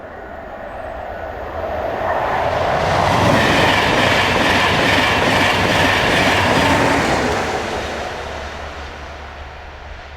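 A train passing at speed: the rumble and clatter of wheels on the rails builds over the first few seconds, is loudest for about four seconds in the middle, then fades away.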